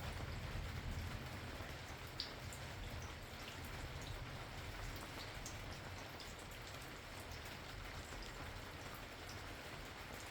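Steady rain falling, with individual drops ticking on a surface and a faint low rumble underneath.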